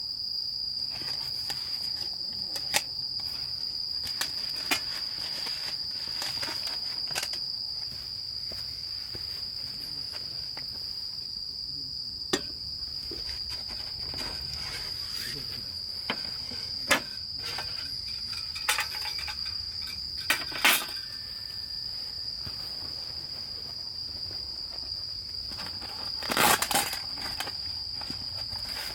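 Insects, crickets or similar, trilling in one unbroken high note, with scattered short knocks and clatters over it, the loudest a cluster near the end.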